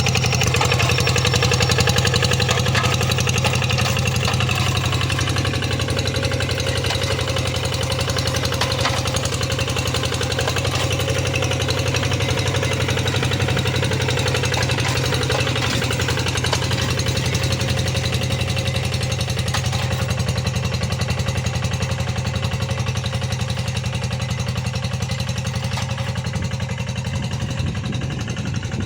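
Tractor engine running steadily with a fast, knocking beat while plowing a rice field.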